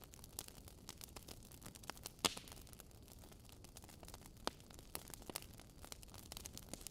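Wood logs burning in a fireplace, crackling with irregular small snaps over a soft hiss. A louder pop comes about two seconds in and another about four and a half seconds in.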